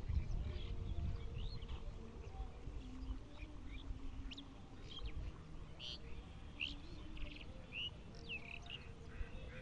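Small birds chirping in short, scattered high calls, more of them in the second half, over a low rumble that is strongest at the start.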